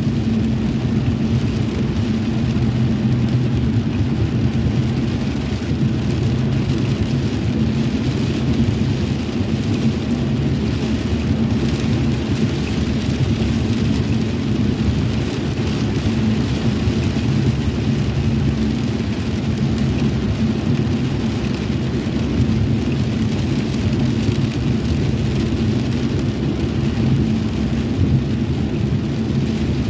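Steady rain with an even low rumble underneath, constant throughout with no sudden cracks or breaks.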